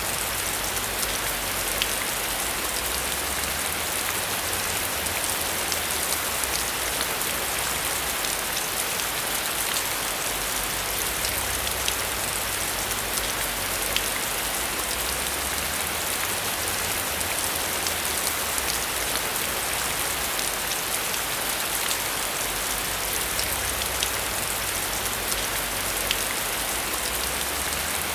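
Steady heavy rain, an even hiss with a dense patter of individual drops ticking on a hard surface.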